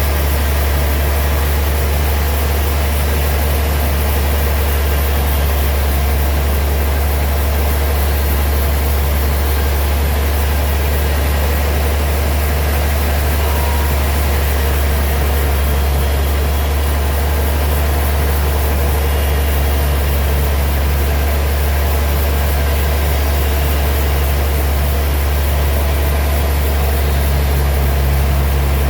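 Heavy sawmill machinery running steadily, a loud constant low hum with a noisy mechanical wash over it.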